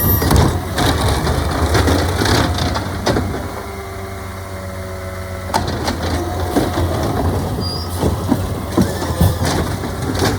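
Garbage truck running, its engine a steady low rumble, with scattered knocks and clanks throughout.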